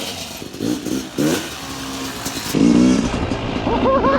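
Yamaha YZ250 two-stroke dirt bike engine revving in short bursts, then near the end climbing and falling in quick, high-pitched blips of the throttle.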